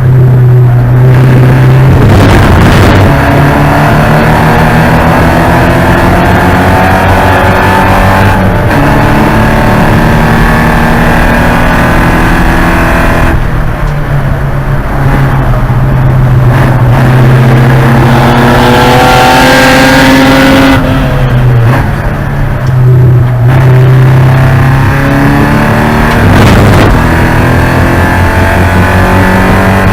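Porsche 944 race car's four-cylinder engine at full throttle on track, very loud, revving up and dropping in pitch through gear changes and lifts for braking several times.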